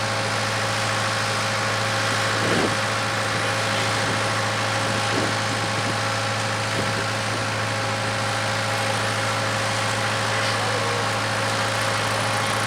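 Case 580K backhoe's diesel engine running at a steady speed during digging, with a few faint knocks from the work.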